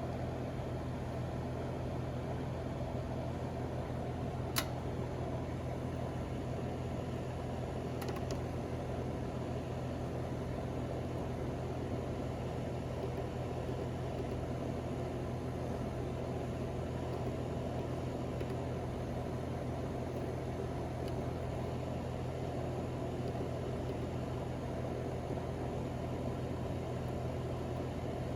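A steady mechanical hum with a low drone, like a machine or fan running continuously; a sharp click about four and a half seconds in and a fainter one near eight seconds.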